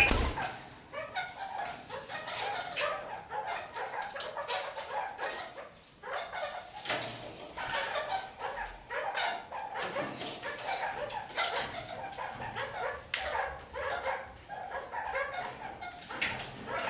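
Red-crowned kakariki parakeets chattering and calling in short, broken phrases, with sharp clicks among the calls.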